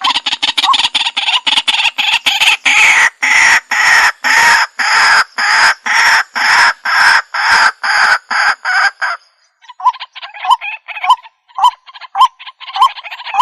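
A waterhen (jal murgi) calling: loud, harsh notes repeated about three times a second for roughly nine seconds, then after a brief break a sparser series of short notes about two a second.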